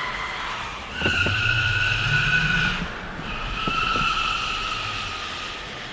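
Car tyres squealing twice, each squeal a long, steady high screech; during the first, an engine revs up.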